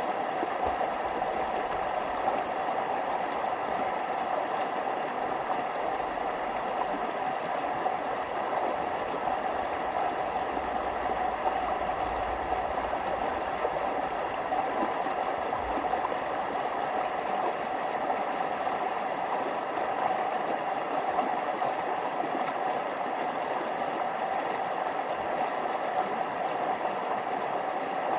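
Stream water running steadily over small waterfalls, a continuous even rushing.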